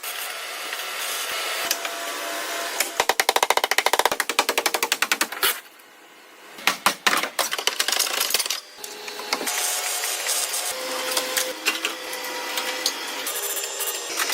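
Workshop hand-tool work: runs of rapid sharp tapping and stretches of scraping, with a short quieter lull about six seconds in.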